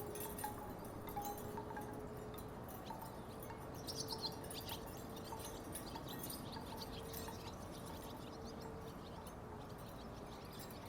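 Wooden tiki wind chimes knocking together irregularly in the breeze, with a quick run of sharper clacks about four seconds in. A faint steady hum sits underneath.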